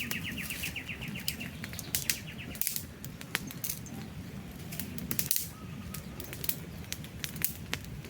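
Wood campfire crackling, with sharp pops over a low rumble of burning, while a bird sings a fast trill that fades out about two and a half seconds in.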